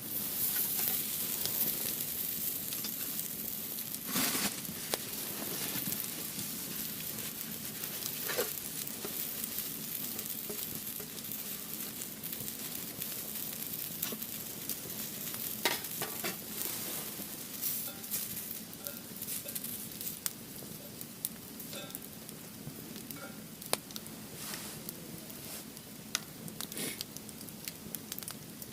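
Firewood burning in a Uniflame Fire Grill: a steady hiss with scattered sharp crackles and pops, a little louder in the first few seconds.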